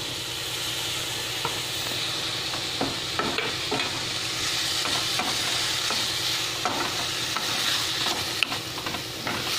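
Chopped tomatoes, onions and green chillies sizzling in a hot non-stick kadai, a steady frying hiss, while a spatula stirs and scrapes the pan with scattered light clicks.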